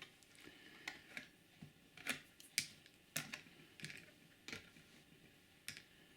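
Scattered small clicks and taps of a model railcar's plastic body shell being eased off its chassis and clips, about eight at uneven intervals.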